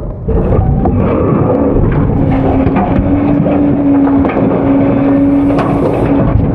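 Autocar-Heil front-load garbage truck running loud while its hydraulic packer works, with a steady whine through the middle and scattered clanks and knocks. There is a brief drop in level right at the start.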